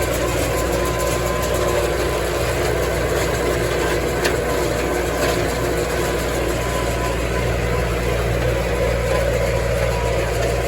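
Farm tractor engine running steadily at an even speed, a constant low hum.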